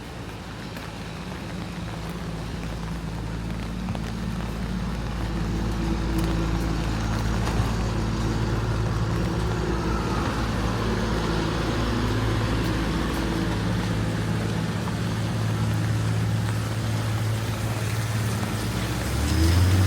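A motor vehicle's engine running close by, growing louder over the first few seconds and then holding steady, over the hiss of rain.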